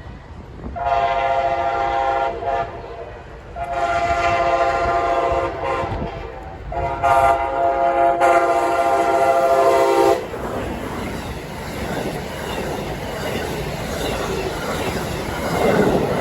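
Amtrak passenger locomotive's horn sounding three long blasts for the grade crossing, followed by the train passing, with the rumble and clickety-clack of its wheels on the rails.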